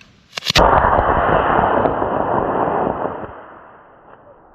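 A model rocket's D20 solid motor lifting off: a couple of sharp pops as it ignites about half a second in, then a loud rushing hiss of thrust for about three seconds that dies away.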